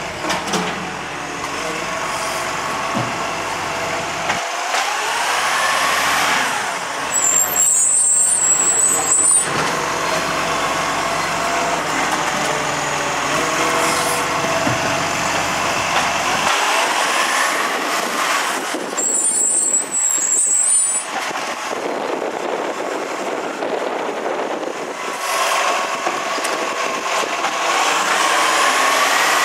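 Iveco Acco garbage truck with a MacDonald Johnston side-loader body: its diesel engine revs up and settles back several times. Two short, sharp air-brake hisses come about a quarter and two-thirds of the way through.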